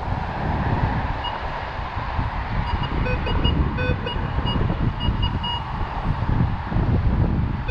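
Wind buffeting the microphone, with a Minelab Vanquish 440 metal detector giving a run of short beeps at a few different pitches, from about a second in to about six seconds in, as the coil passes over another buried target.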